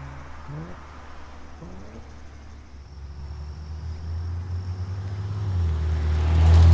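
Nissan Fairlady Z NISMO's VR30DDTT twin-turbo V6 exhaust note through an HKS Super Turbo Muffler: a low rumble with two short rising notes in the first couple of seconds, then the exhaust growing steadily louder toward the end.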